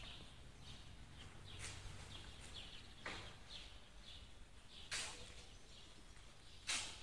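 Birds chirping: louder calls every second or two, softer chirps between, over a faint low hum.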